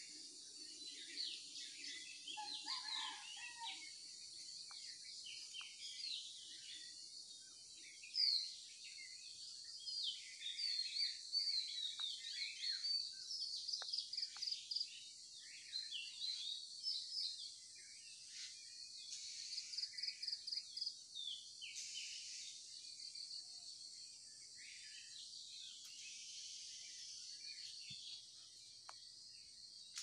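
Morning chorus of many small birds chirping and trilling, busiest in the middle, over a steady high hiss of insects.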